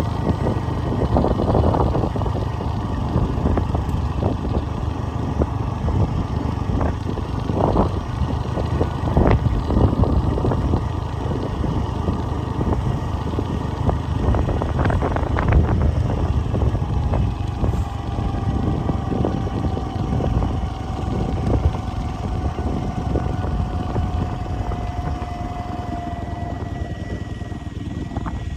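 A vehicle running: a steady low rumble with scattered knocks and rattles, and a faint whine sliding slowly down in pitch in the second half.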